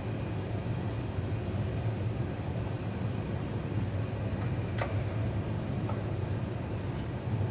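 Steady low cabin rumble inside an Airbus A350-900 airliner, with a sharp click about five seconds in and a fainter one near the end.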